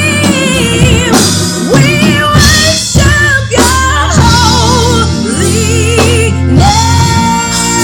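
Gospel music with singing and vibrato over bass and drums.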